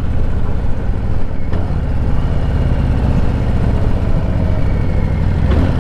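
Harley-Davidson Softail Slim's V-twin engine running steadily as the motorcycle is ridden, a dense low rumble.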